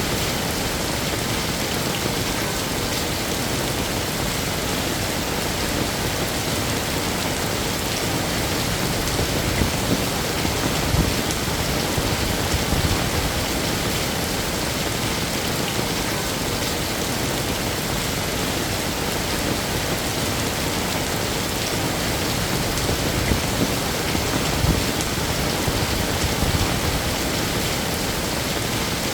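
Heavy rain falling steadily, a dense even patter with a few brief swells in loudness.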